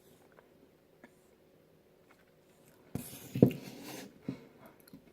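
A spoon clicking and scraping in a bowl of soft ice cream: a few faint ticks, then a short cluster of clicks and scrapes about three seconds in.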